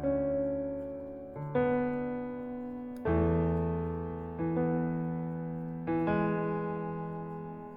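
Background piano music: slow, soft chords struck about every one and a half seconds, each one left to ring and fade.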